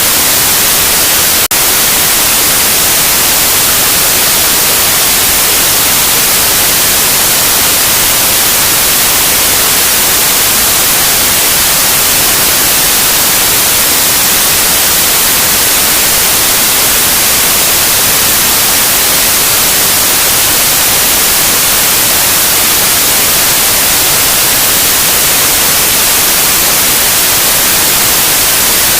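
Loud, steady white noise: an even, unbroken hiss with no pitch, brightest in the treble, with one brief click about a second and a half in.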